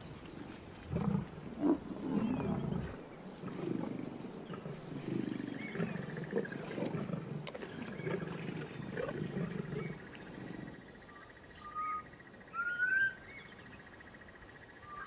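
Lions growling in irregular low bursts over a freshly downed buffalo calf, for about ten seconds. Near the end it turns quieter, with a steady high tone and a few short rising whistled calls.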